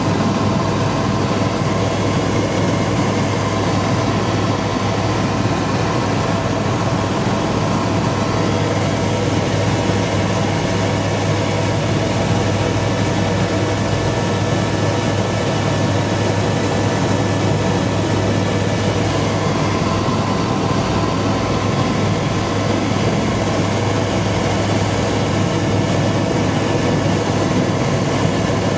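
Helicopter in flight, heard from inside the cabin: a loud, steady drone of engine and rotors, with a low hum and a few thin steady whining tones above it.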